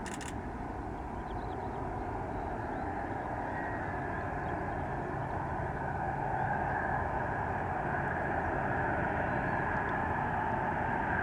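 Jet aircraft engine noise building steadily louder as the aircraft approaches, a low rushing with a faint thin whine above it.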